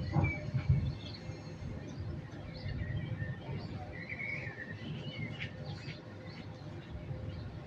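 Birds chirping and trilling in short scattered calls over a low, steady rumble of distant city noise.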